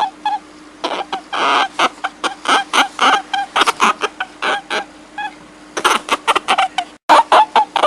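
A rapid, overlapping series of short, high-pitched animal cries, with a steady low hum underneath and a brief cut-out about seven seconds in.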